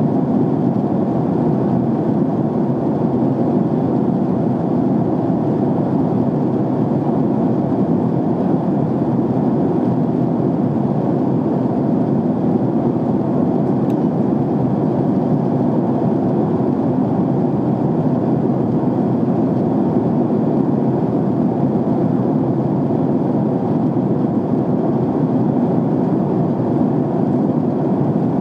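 Airliner cabin noise in flight: a steady, unbroken rush of engine and airflow noise heard from inside the cabin.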